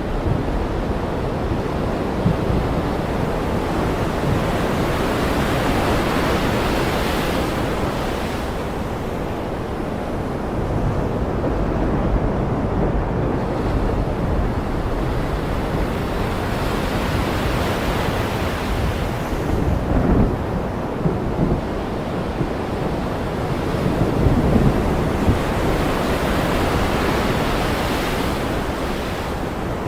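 Ocean surf washing in slow swells, one about every ten seconds, with low rumbles of thunder twice in the second half.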